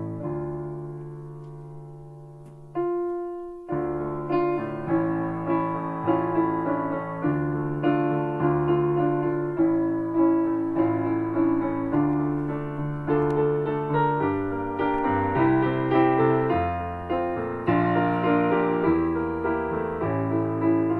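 Piano music: a held chord dies away for the first few seconds, then the playing resumes at a gentle steady pace, about two notes a second.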